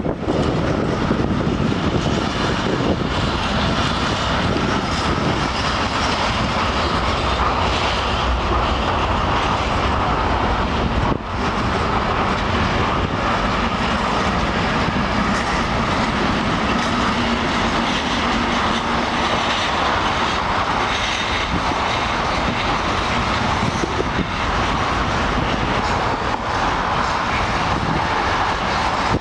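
Intermodal freight train of container and trailer wagons, hauled by a Bombardier TRAXX F140 AC2 electric locomotive, rolling past: a loud, steady rumble of wheels on rail with clatter over the rail joints.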